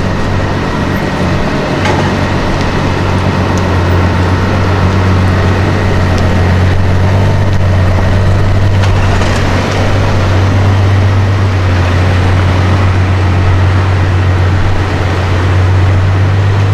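A vehicle engine running at a steady idle, a deep constant drone with no revving, over street noise.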